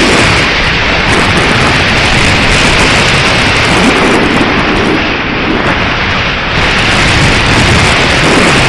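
Strong wind buffeting the microphone: a loud, steady rushing noise that eases briefly about five seconds in.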